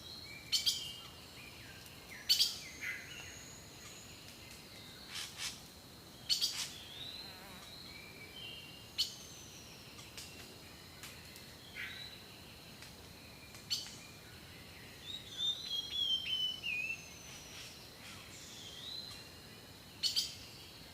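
Birds singing and calling: sharp, short chips every second or two among whistled notes that slide up and down, with a busier run of twittering about fifteen seconds in.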